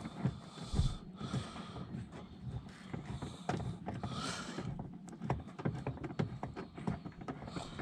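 Hand tightening of a T30 Torx screw into the Saab 9-5 door pull handle trim: scattered small clicks and scrapes of the screwdriver and plastic trim, with a low knock just under a second in.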